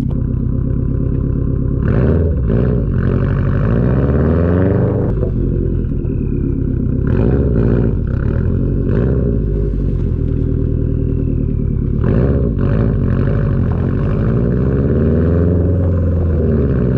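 A 2021 Subaru WRX STI's turbocharged flat-four running through an RK Titanium titanium catback exhaust on the stock downpipe, with a steady exhaust rumble. The revs climb in pulls about two seconds in, around seven seconds in, and from about twelve seconds in.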